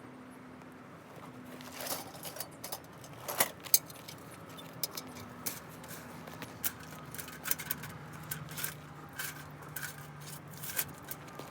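Wood campfire crackling: irregular sharp pops and clicks, with a louder cluster about three and a half seconds in.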